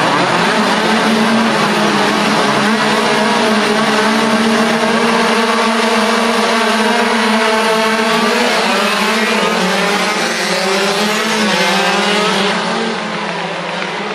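Several 50cc two-stroke racing motorcycles running at high revs, their engine notes overlapping and wavering up and down in pitch as they ride past. The sound eases off a little near the end.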